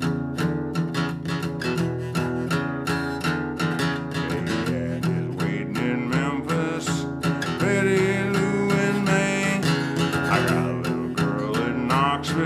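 Acoustic guitar strummed in a steady country rhythm, an instrumental break between verses of the song.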